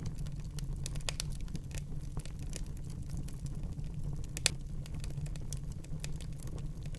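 Wood fire burning in a fireplace: a steady low rumble of the flames under irregular crackles and small pops, with one louder pop about four and a half seconds in.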